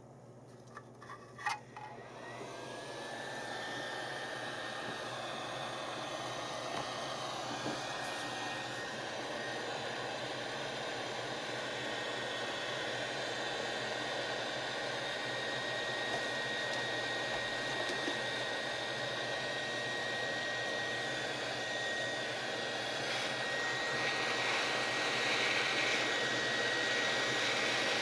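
Hot-air soldering gun's blower switched on after a few clicks, its airflow hiss building up as a thin whine rises and settles. It then runs steadily, getting slightly louder near the end.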